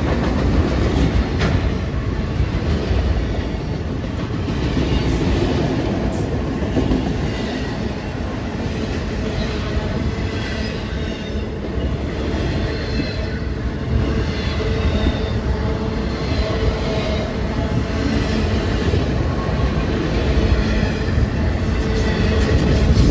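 Enclosed autorack freight cars rolling past close by: a steady rumble and rattle of steel wheels on the rails. Faint high wheel squeals come and go around the middle.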